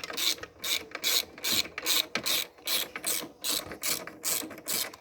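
A hand tool worked back and forth in quick, even strokes, about three a second, each stroke a short rasping hiss.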